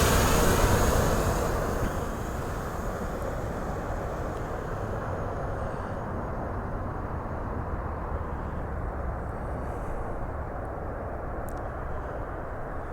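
Quadcopter drone (Hubsan Zino 2 Plus) propeller buzz fading over the first couple of seconds as it flies away, leaving a steady low rushing noise.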